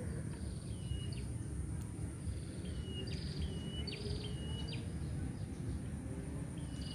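A small bird repeating a short, thin call: a level whistled note that ends in a quick upward flick, given several times about a second apart. Under it runs a steady low rumble.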